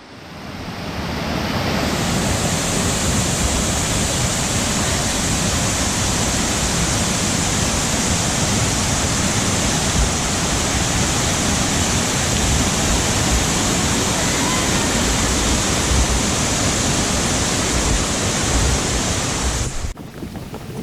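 Waterfall: a loud, steady rush of falling water. It fades in over the first second or two and cuts off near the end.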